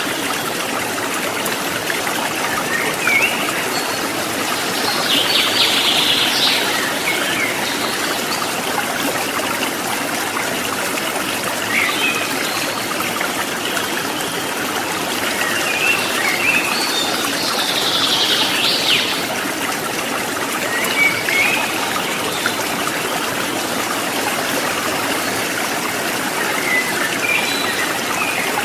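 Steady trickling and burbling of flowing stream water. Wild birds call over it now and then, with two longer, busier bursts of song about five seconds in and again about seventeen seconds in.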